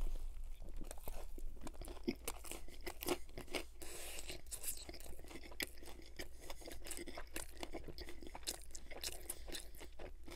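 Close-miked chewing of a steak taco in a soft flour tortilla, starting with a bite, with many small, sharp, wet clicks throughout.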